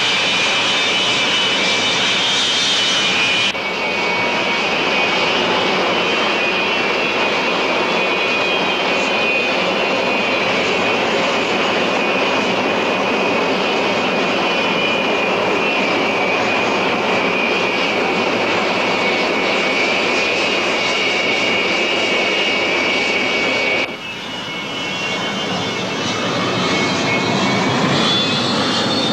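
Aermacchi MB-339 PAN jet trainers' Viper turbojets running with a loud, steady high-pitched whine over a rushing roar. The sound changes abruptly twice, and near the end the whine rises in pitch as the engines spool up.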